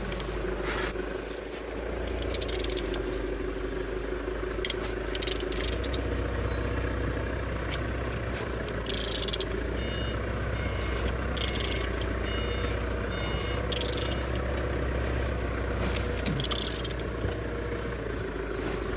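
A BMW M57D30 diesel engine being turned over by hand, giving short scraping bursts every couple of seconds, over a steady machinery hum. From about halfway in, a vehicle's reversing beeper sounds in bursts.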